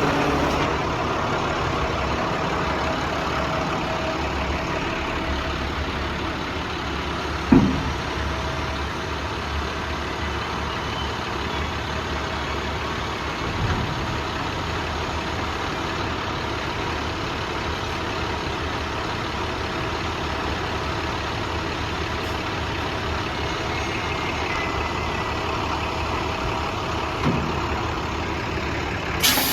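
International WorkStar 7400 dump truck's MaxxForce diesel engine idling steadily, with three brief low thumps, the loudest about eight seconds in.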